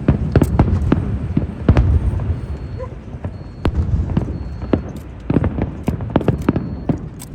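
Fireworks going off: a quick, irregular string of sharp bangs and booms over a continuous low rumble.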